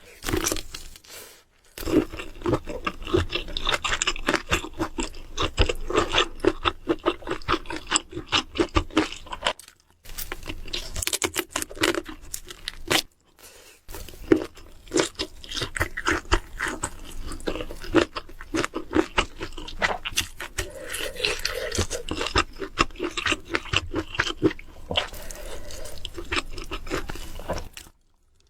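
Close-miked eating sounds: a person chewing and crunching food in dense runs of crisp clicks. The runs break for short pauses about ten and thirteen seconds in.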